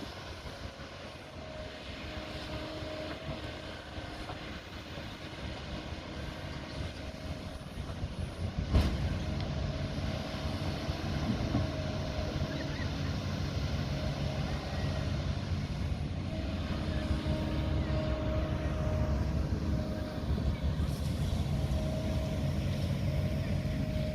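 Diesel engine of a heavy earthmoving machine running steadily at work. A sharp knock comes about nine seconds in, after which the engine sounds louder and heavier.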